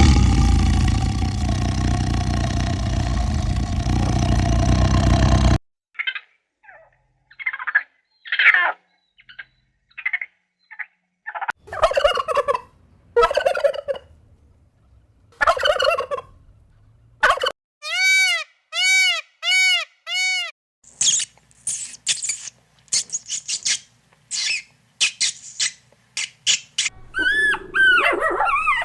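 A string of separate animal calls edited back to back, mostly poultry such as gobbling and clucking: after a loud, steady noisy stretch of about five seconds come many short calls, a row of five identical arched chirps, and quick high calls.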